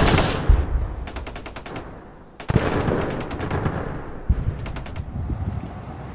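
Gunfire: three loud shots about two seconds apart, each trailing off, with quick rattling runs between them.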